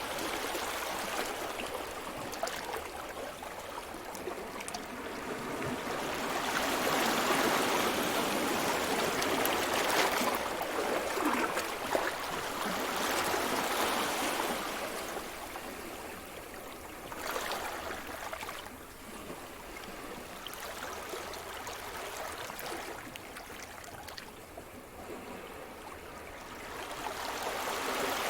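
Sea surf: waves washing onto the shore in slow surges. A long rush swells and ebbs through the middle, a smaller wave follows about two-thirds through, and another builds near the end.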